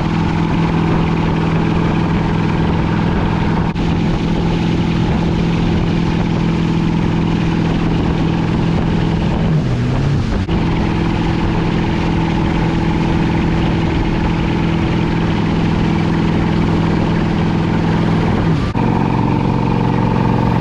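Motorboat engine running steadily under load while towing, with water and wind rush. Its pitch dips briefly and comes back about ten seconds in, and rises a step near the end.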